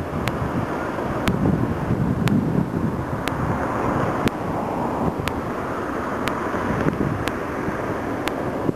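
Wind buffeting the microphone over the steady rush of large ocean waves breaking, swelling and easing every few seconds. A faint sharp click repeats about once a second.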